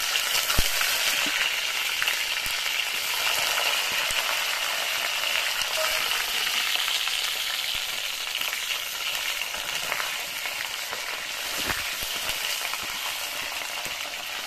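Cauliflower florets sizzling steadily as they fry in hot oil in a kadai, with a steel spatula clicking against the pan a few times as they are stirred.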